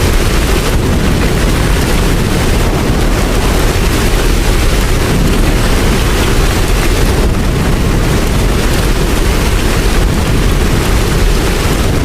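Steady rain: a dense, unbroken hiss with a strong low rumble under it.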